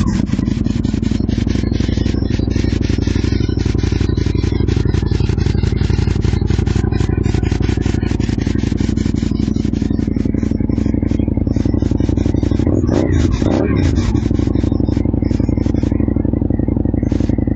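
2007 Aprilia Tuono 1000R's V-twin engine idling steadily through GPR slip-on exhausts, with a short blip of the throttle about 13 seconds in.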